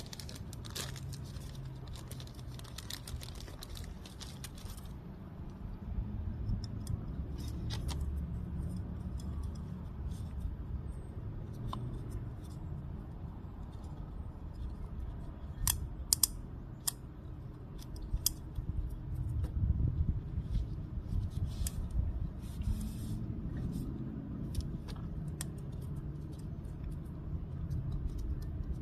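Scattered small clicks and rattles of hands handling small parts, over a steady low rumble.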